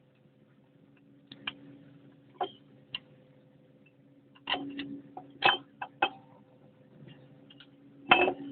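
A string of sharp metal clicks and knocks from tools and parts being handled during the strip-down of an excavator travel motor, irregularly spaced, the loudest near the end, over a steady low hum.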